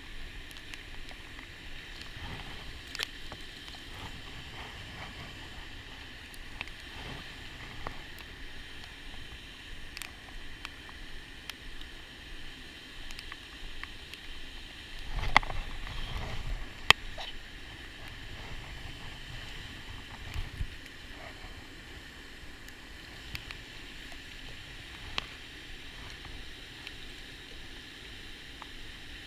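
Steady outdoor background at a lake's edge with scattered small clicks and knocks, and a louder couple of sharp knocks with a low rumble about halfway through.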